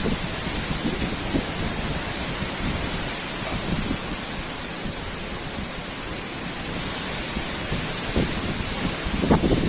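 Strong wind blowing steadily with a hiss and irregular low rumbling gusts buffeting the microphone, a little stronger near the end.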